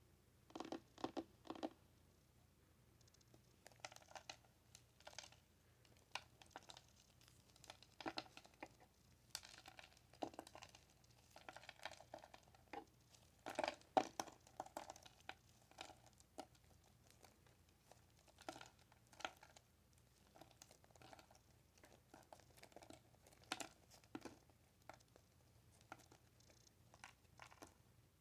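Quiet, irregular crinkling and scratching of handled material, made as ASMR triggers, coming in short clusters of crackles with the loudest about halfway through.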